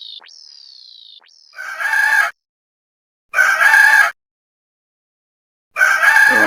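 Rooster crowing three times, each crow under a second long and about two seconds apart. A few fading falling whistle tones come first.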